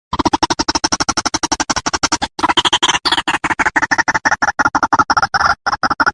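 White-breasted waterhen (ruak-ruak) call used as a bird lure: a loud, rapid chattering series of harsh pulses, about nine a second, breaking off briefly a little past two seconds in and again a few times near the end.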